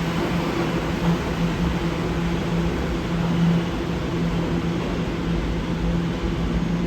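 R211 subway train: steady running noise with a low, even hum.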